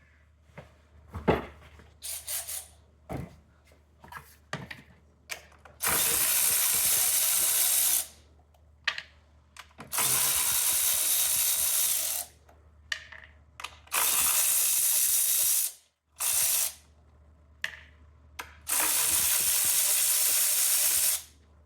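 Power ratchet run in five bursts, most about two seconds long, loosening 10 mm bolts on a Honda Civic engine, with tool clicks and clatter between them in the first few seconds.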